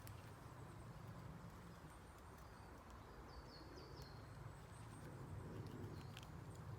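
Faint woodland quiet over a low steady rumble; about halfway through, a bird gives a quick run of four short, high, falling chirps.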